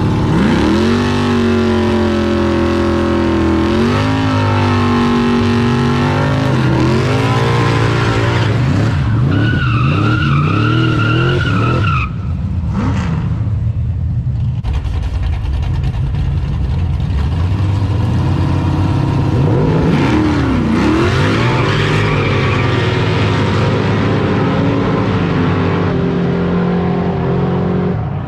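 Car engines revving hard, their pitch rising and falling, with a tyre squeal about ten seconds in, as at a street burnout or drift.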